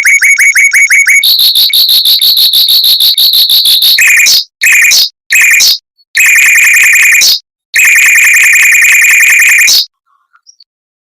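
Mockingbird singing rapid, closely spaced repeated notes: first a run of separate notes, then a quicker steady trill, then several long rapid-fire phrases broken by short gaps. It stops for about a second near the end.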